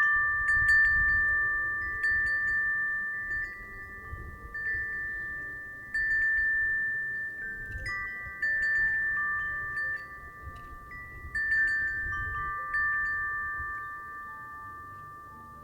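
Wind chime ringing in the breeze: clusters of clear, sustained metallic tones struck every couple of seconds and dying away between gusts, over a low rumble of wind. The ringing tails off toward the end.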